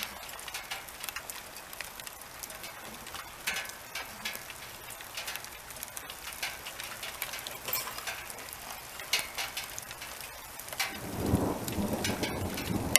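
Rain falling, with many individual drops ticking close by. Near the end a low rumble sets in under the rain.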